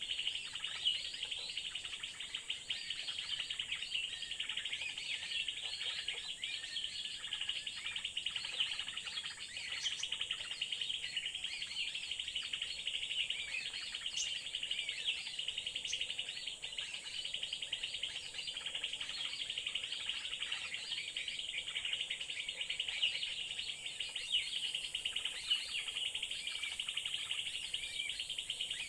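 Many birds chirping in quick, overlapping calls, with a steady high insect drone underneath.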